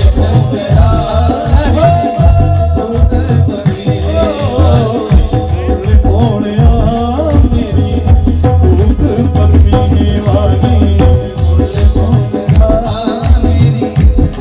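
Loud Indian devotional folk music: a heavy, steady drum beat with rattling percussion under a wavering melody line.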